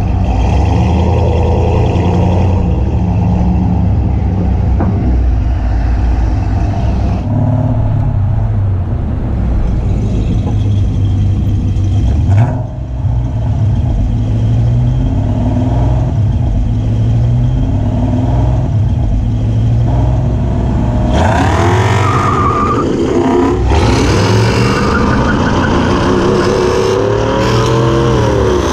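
V8 vehicle engine running with heavy road and drivetrain noise. About three-quarters of the way through it accelerates hard, its pitch climbing in rising sweeps through the gears, with a loud rush of wind.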